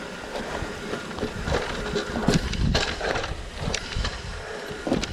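Mountain bike being ridden down a rough trail: a steady rush of tyre and wind noise, broken by irregular knocks and clacks as the bike jolts over the ground.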